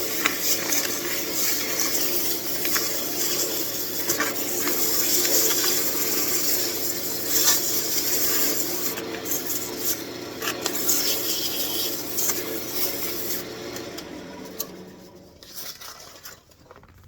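Sandpaper rubbing against a wooden ornament spinning on a wood lathe, a steady hiss over the lathe motor's hum. About fourteen seconds in the lathe is switched off and the sound dies away as it spins down.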